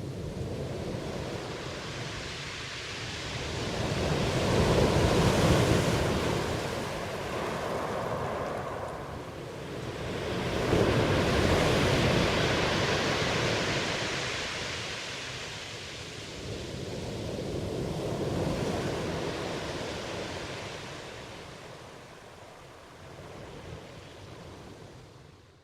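Ocean waves washing onto a shore, the surf swelling and falling away in three surges about six or seven seconds apart.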